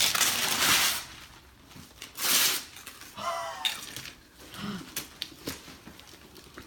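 Wrapping paper being torn and crinkled off a large present in several quick rips, the loudest in the first second and again about two seconds in. A child's brief wordless vocal sound comes a little past the middle, and there are a few light knocks of handling near the end.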